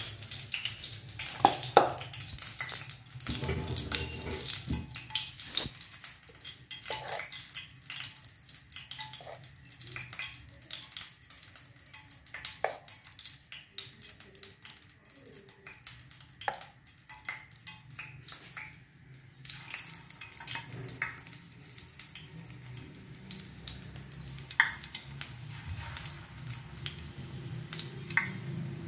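Wet squelching and clicks of boiled eggs being turned in thick gram-flour batter in a bowl. About two-thirds of the way in a steady sizzle of hot oil in a frying pan comes in, and a batter-coated egg goes into the oil near the end.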